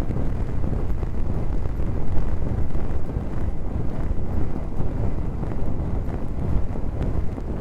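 Close, continuous rubbing on the microphone: a low, rumbling rustle with faint clicks throughout.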